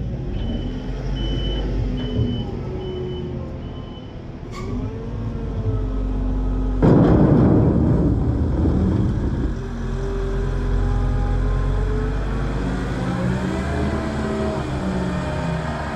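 Farm machinery diesel engines working, their pitch rising and falling as they rev. A reversing alarm beeps about twice a second for the first four seconds. About seven seconds in, a loud rushing noise lasts two to three seconds.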